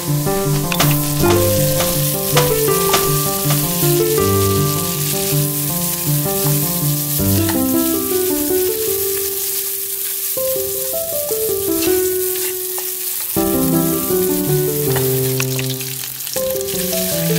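Chicken wings and garlic frying in oil in a nonstick pan, a steady sizzle with occasional clicks of a plastic spatula turning the pieces. Background music with distinct melodic notes plays throughout.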